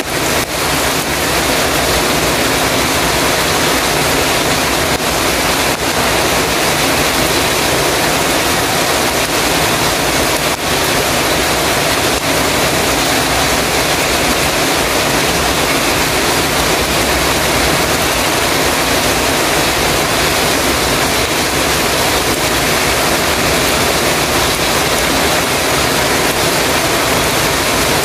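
Heavy rain pouring on a metal roof: a loud, dense, unbroken hiss.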